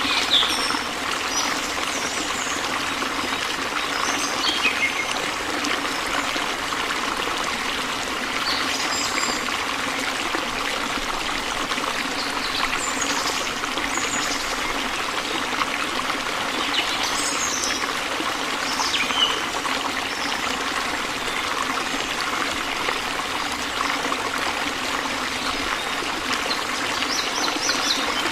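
A stream of water flowing and trickling steadily, with birds chirping briefly every few seconds above it.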